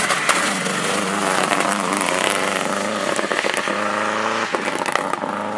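Rally car engine at high revs as the car passes close, its pitch climbing about three and a half seconds in, with many sharp cracks throughout.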